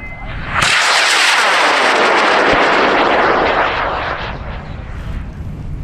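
High-power rocket lifting off on an AMW K800 Blue Baboon composite motor. The motor's loud rushing exhaust noise starts suddenly about half a second in, holds for about three seconds, then fades as the rocket climbs away.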